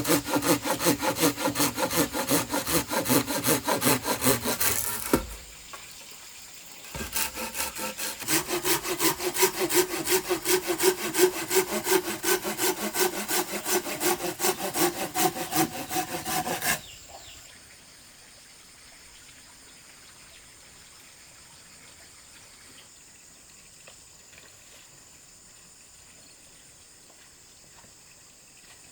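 Hand saw cutting through wood in quick, even back-and-forth strokes, in two bouts with a pause of about two seconds between them. The sawing stops about two-thirds of the way through, leaving only faint background.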